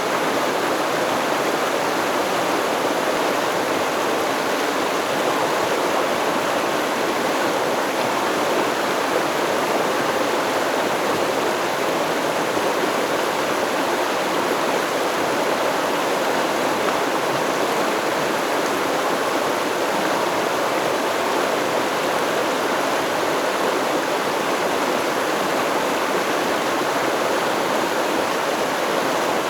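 Stream water flowing steadily, an even rushing of water that stays at one level throughout.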